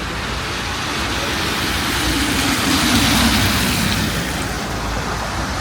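A car passing on a wet street: tyre hiss and engine hum swell to a peak about three seconds in, then fade.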